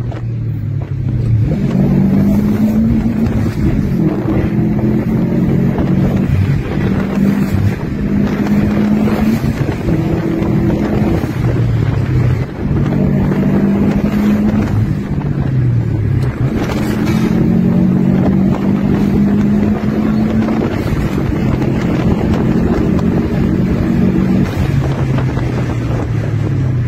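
Subaru Impreza WRX STI's EJ25 2.5-litre turbocharged boxer four accelerating hard through the gears, heard from inside the cabin. Several times over, the engine note climbs and then drops back at a gear change.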